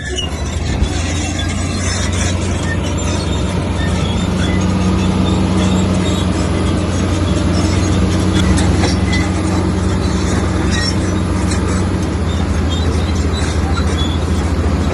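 Komatsu crawler bulldozer's diesel engine running steadily under load, with clanking, squealing tracks and a rattle of scraping stone.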